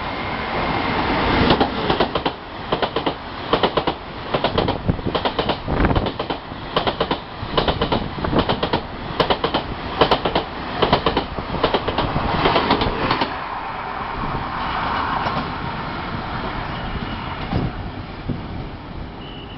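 A train passing through a station at speed, its wheels clattering in a quick, irregular rhythm over rail joints under a steady rush of noise. Near the end the clatter stops and the rumble fades away.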